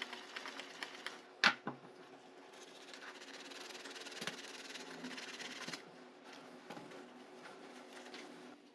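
Synthetic shaving brush swirling and rubbing on shaving soap, working up lather with a faint wet rubbing and small ticks. A single sharp click about one and a half seconds in.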